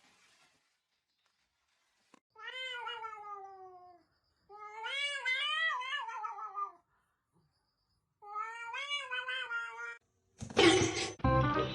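A cat giving three long, drawn-out meows, the first falling in pitch and the second wavering up and down. Near the end a loud, harsh burst of noise cuts in, followed by music.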